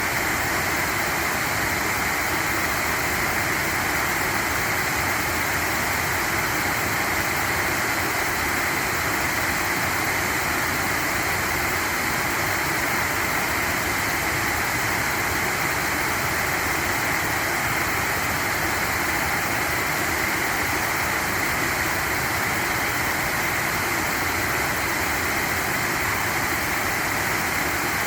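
Steady, even rush of flowing stream water, unbroken throughout.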